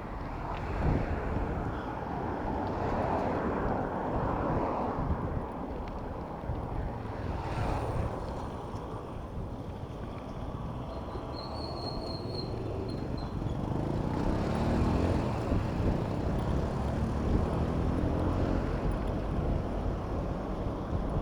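Wind buffeting the microphone of a moving bicycle amid city traffic. Motor vehicles run close by, and in the second half an engine rises in pitch. A brief high-pitched tone sounds near the middle.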